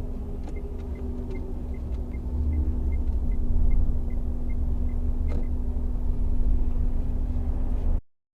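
Low, steady road and engine rumble inside a moving car, with a steady hum and a rapid even ticking, about three ticks a second, for most of it. The rumble grows louder partway through, and the sound cuts off suddenly near the end.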